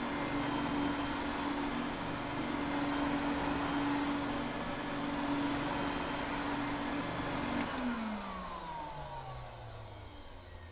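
Vacuum cleaner running with a steady hum, then switched off with a click about three-quarters of the way through, its motor winding down in a falling whine.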